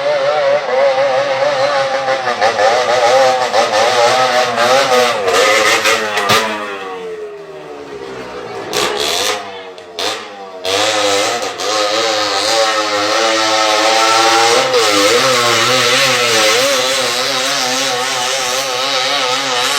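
Motorcycle engine running hard, its pitch wavering quickly up and down. About a third of the way in the pitch sinks as it slows, then rises again as it speeds back up. The sound drops out briefly twice near the middle.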